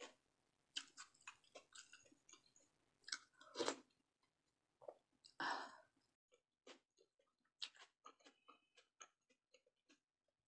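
A person chewing and eating: soft mouth clicks scattered throughout, with two louder, longer mouth sounds at about three and a half and five and a half seconds in.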